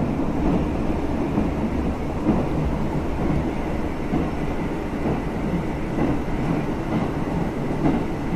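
Interior running noise of a JR Central KiHa 75 diesel railcar travelling at speed: a steady rumble from the wheels and the underfloor diesel, with a few light knocks from the track.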